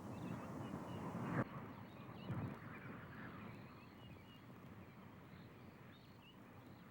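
Faint outdoor wildlife ambience with scattered small bird chirps over a steady hiss, and a short thump about a second and a half in.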